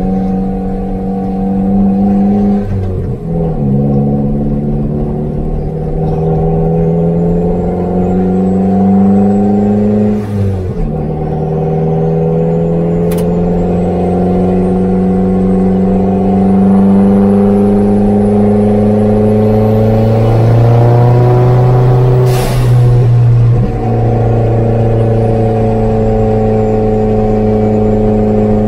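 Opel Speedster's four-cylinder engine pulling steadily through the gears, with its pitch climbing slowly and stepping down at two upshifts, about 3 and 10 seconds in. It keeps rising until a drop near the end, then runs at a steady speed.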